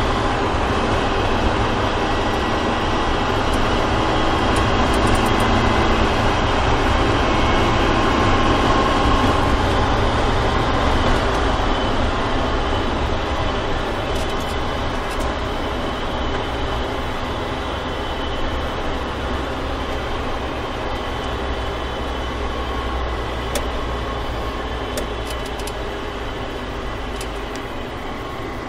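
BMW track car's engine and road noise heard from inside the cabin, running steadily, then easing off and growing gradually quieter over the second half as the car slows.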